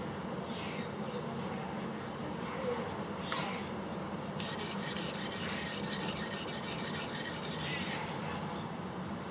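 A yanagiba blade being stroked on a natural whetstone, a steady gritty rubbing as a micro bevel is put on the edge, with two short sharp ticks about three and a half and six seconds in.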